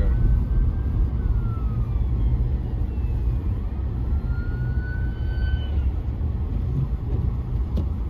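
Steady low rumble of a car driving, heard from inside the cabin, with an ambulance siren faintly wailing over it, its pitch falling and then rising again during the first six seconds.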